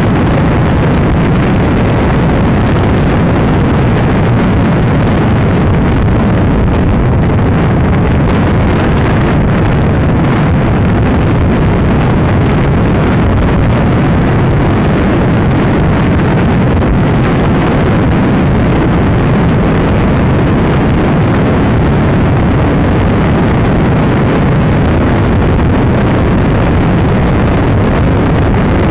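Honda Supra X 125 underbike with its 125 cc single-cylinder four-stroke engine, ridden at a steady high speed. It is heard through loud, unbroken wind buffeting on the microphone that nearly covers the engine.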